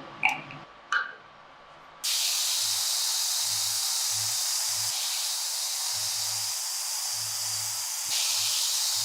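A few light knocks, then a loud, steady spraying hiss switches on suddenly about two seconds in, with a faint low hum that comes and goes underneath.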